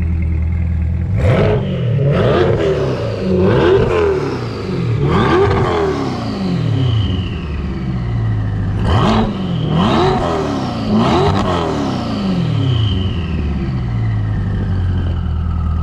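Twin-turbocharged C8 Corvette V8 idling, then revved in a run of about seven quick blips that each rise and fall, before it settles back to a steady idle near the end. It breathes through a custom exhaust bolted straight to the turbos.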